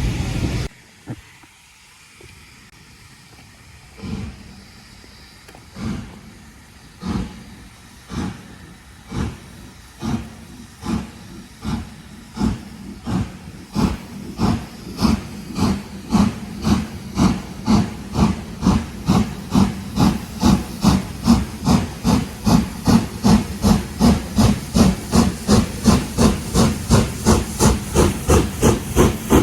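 Steam locomotive pulling away from a stand: its exhaust beats start slow, about one every two seconds, then quicken and grow louder to around two or three a second, with a steady hiss of steam underneath.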